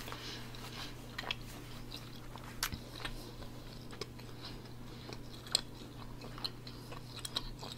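Close-miked chewing and mouth noises, with scattered light clicks, some of them a metal spoon moving in a glass bowl of black-eyed peas. A faint steady low hum runs underneath.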